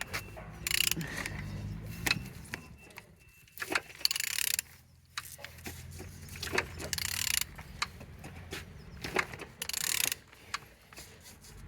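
A used car engine being turned over by hand: irregular metallic clicks and clinks, with a few short hissing bursts along the way, while it turns freely with compression on all cylinders.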